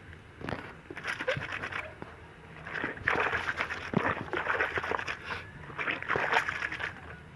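Wet clothes being rubbed and scrubbed together by hand with bar soap, in three short bursts of rapid scraping.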